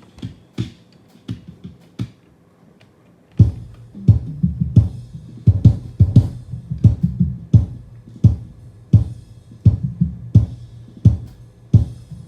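Multitrack band recording played back through a mixing desk: sparse single drum hits at first, then a little over three seconds in the full drum kit and low-end instruments come in with a steady beat.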